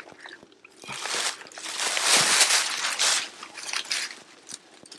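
Footsteps crunching and rustling, loudest for about two seconds in the middle.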